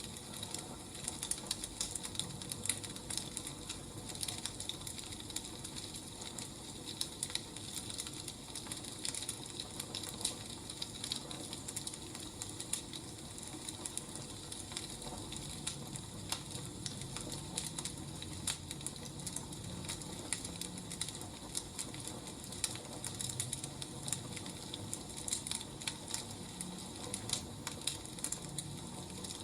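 Wood fire crackling, with a steady run of irregular sharp pops and snaps.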